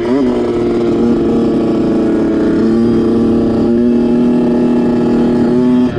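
Kawasaki single-cylinder dirt bike engine running at steady high revs, its pitch held level for several seconds, with a quick change in revs right at the start and again at the end.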